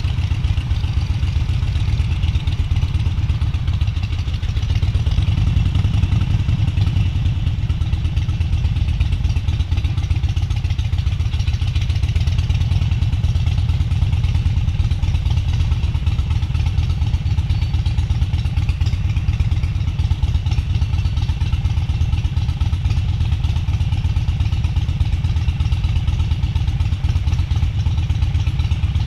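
Motorcycle engine running steadily, a low even rumble with no clear revving.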